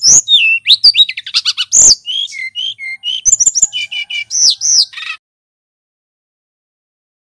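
Male brown-chested jungle flycatcher singing a fast, varied run of whistled notes and chirps that cuts off suddenly about five seconds in.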